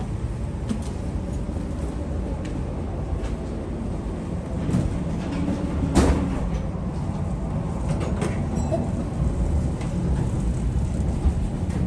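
Tram running on its rails: a steady low rumble with scattered clicks and one sharp clack about six seconds in. Near the end a whine rises in pitch as the tram picks up speed.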